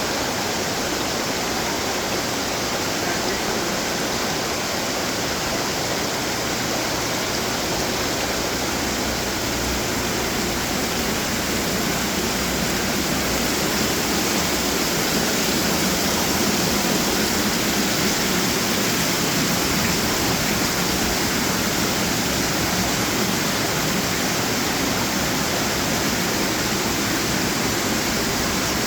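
Water splashing and trickling from display water fountains, a steady rushing that grows slightly louder near the middle.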